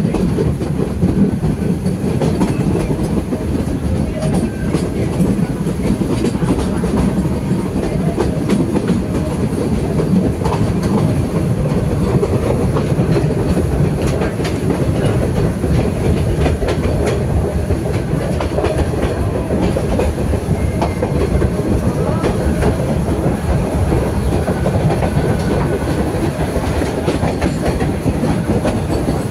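Metre-gauge heritage train's coaches running steadily on the rails, heard close up from an open coach window: an even rolling wheel noise with faint scattered clicks.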